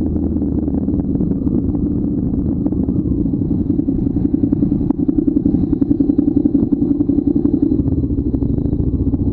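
Motorcycle engine running while the bike is ridden, a dense low drone that pulses faster and more strongly from about halfway through.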